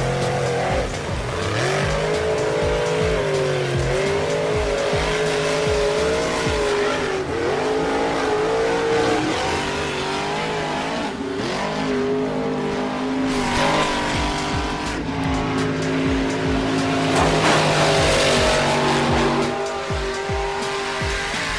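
Engine revving sounds rising and falling in pitch, over background music with a steady beat.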